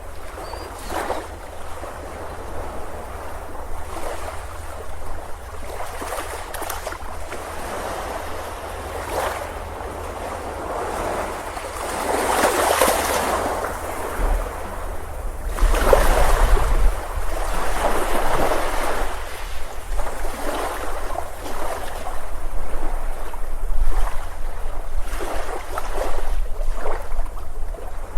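Ocean surf breaking on a beach, the wash of the waves swelling and falling back every few seconds, louder in the second half. A low wind rumble on the microphone joins about halfway through.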